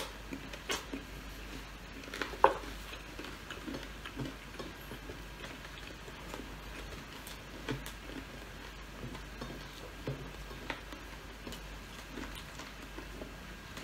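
Eating sounds: soft chewing and mouth clicks while fried chicken and rice are eaten by hand, with scattered small ticks and one sharper click about two and a half seconds in.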